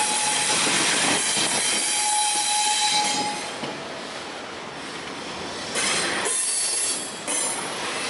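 Norfolk Southern double-stack intermodal train's well cars rolling past at close range, steel wheels running on the rails with a high steady wheel squeal over the first few seconds. The noise eases a little about three seconds in, with short louder bursts of clatter near six and seven seconds.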